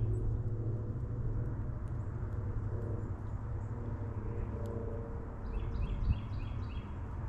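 Songbirds at a feeder: a quick run of about six clear notes about five and a half seconds in, and scattered short high chips, over a steady low rumble.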